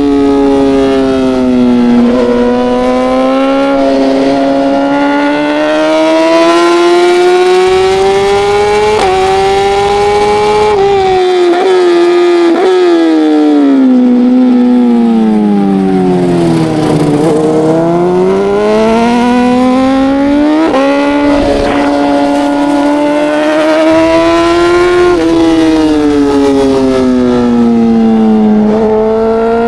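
Racing motorcycle engine at hard throttle, its pitch climbing and falling with the bike's speed, with sharp steps at gear changes. The pitch sinks steeply about halfway through as the bike slows, then climbs again.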